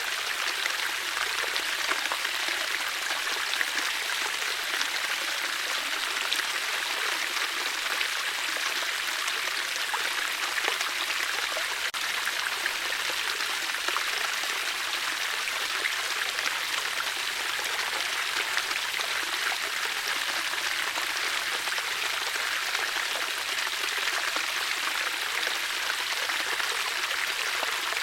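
Water flowing steadily, a constant rushing and babbling like a stream.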